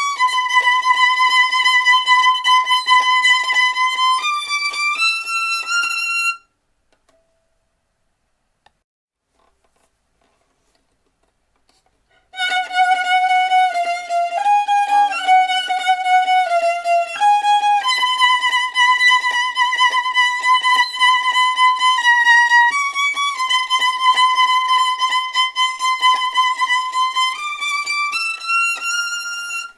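Solo violin playing slow, long held notes, falling silent for about six seconds partway through before resuming.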